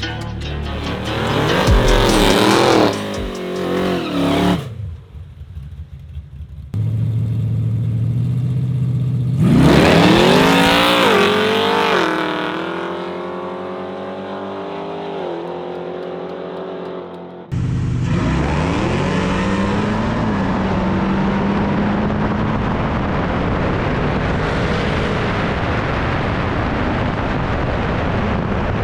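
Manual-shift drag car's engine revving and accelerating hard in several edited clips, its pitch climbing and dropping between gear changes. One stretch holds a steady low running note, and the last part is a long, steady drone of the engine at speed.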